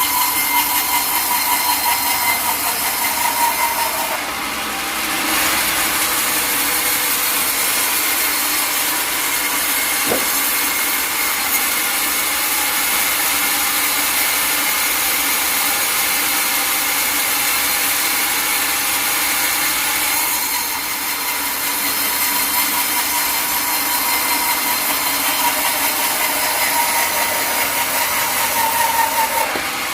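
Sawmill blade running through a log, a continuous loud cutting noise with a steady high whine. The sound eases off briefly twice, about four seconds in and again around twenty seconds in.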